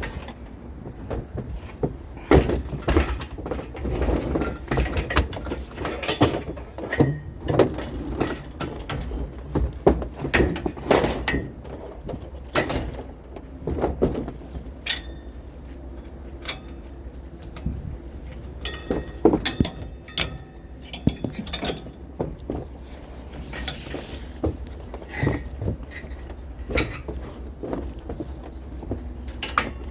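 Irregular knocks, clunks and rattles of objects being handled and moved, with a few briefly ringing metallic strokes past the middle, over a steady low rumble.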